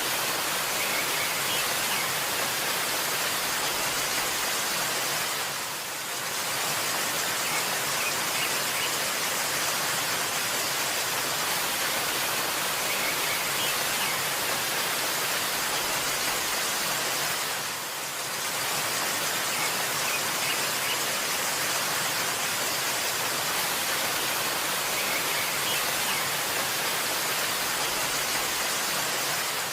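Steady rushing of a waterfall, an even hiss of falling water that dips briefly about every twelve seconds.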